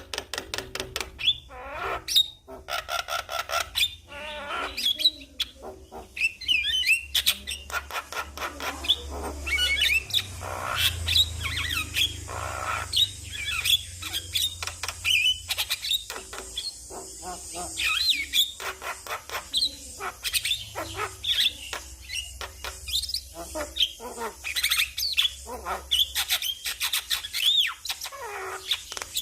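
Javan myna singing: a dense, unbroken run of sharp clicks, harsh chatter and short rising and falling whistles.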